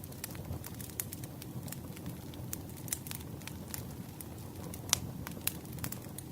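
Campfire crackling: irregular sharp pops and snaps over a steady low rumble of flames, with one louder pop about five seconds in.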